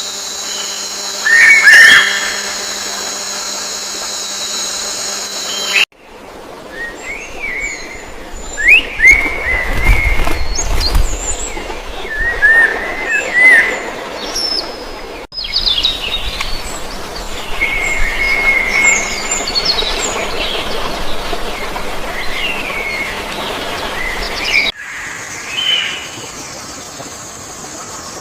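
Songbirds chirping and calling in short, quick phrases, in several clips joined with abrupt cuts. A steady high whine runs under the first few seconds.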